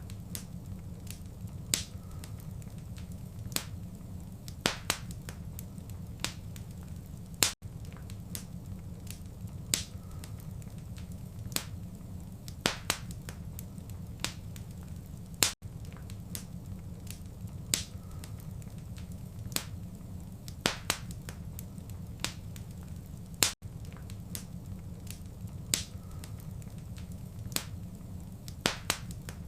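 Wood fire crackling in a fireplace: irregular sharp pops and snaps, one or two a second, over a steady low rumble. About every eight seconds the sound cuts out for an instant where the recording loops.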